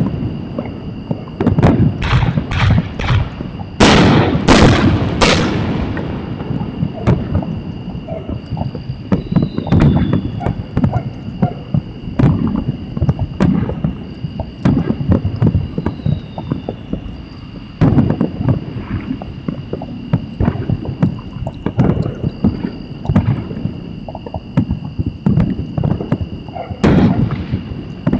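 Fireworks going off: a quick run of loud bangs in the first six seconds, then scattered pops and crackles, with another loud bang near the end. A steady high whine runs underneath.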